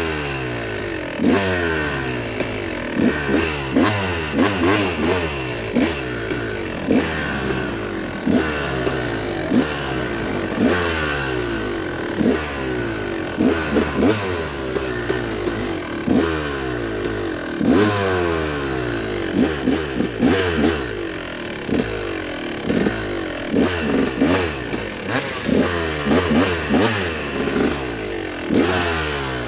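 Dirt bike engine revving up and down over and over, its pitch rising and falling every second or two, with frequent sharp knocks and rattles.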